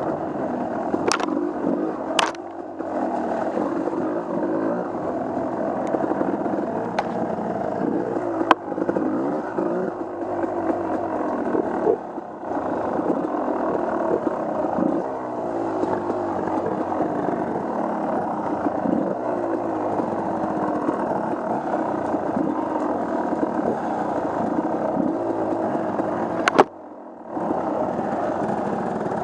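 Off-road vehicle engine running on a trail, its pitch rising and falling as the throttle is worked, with a few sharp knocks along the way. The sound cuts out briefly near the end.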